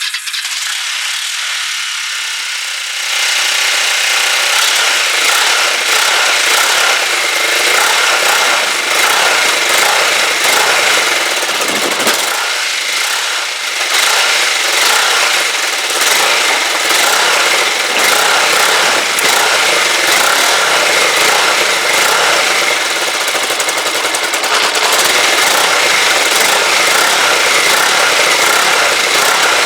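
Rebuilt Kawasaki GPZ500S parallel-twin engine running in a bare frame on a test start, steady and loud, stepping up in loudness about three seconds in.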